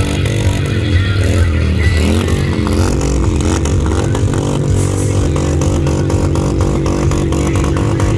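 Motorcycle engines running, their pitch rising and falling with revs for the first two or three seconds, then holding steady.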